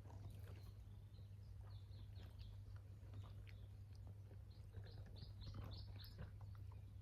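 Faint short bird chirps, a quick run of them about five seconds in, over a low steady hum.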